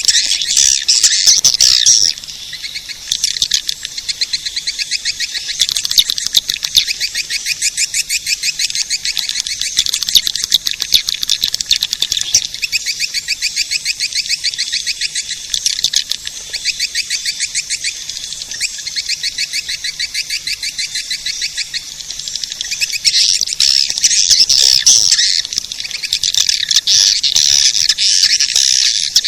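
Recorded swiftlet calls played as a swiftlet lure: fast, dense, high-pitched chirping trills that repeat without pause, louder at the start and again near the end.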